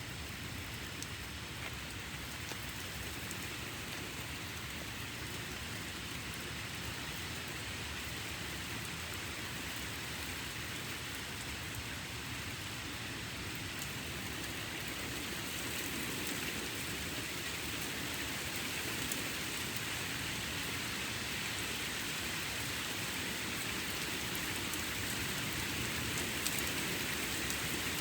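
Rain falling steadily in a thunderstorm, growing gradually louder toward the end.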